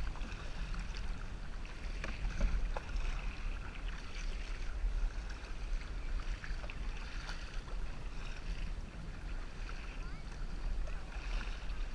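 Wind rumbling on the microphone over the wash and splash of ocean water around a kayak, with scattered small splashes and ticks.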